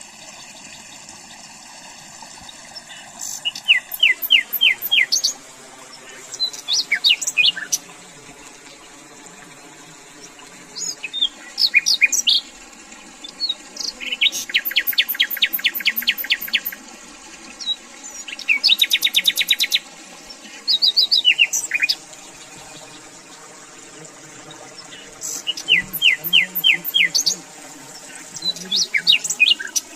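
A songbird singing in repeated short phrases of quick chirps and trills, with pauses of a few seconds between phrases.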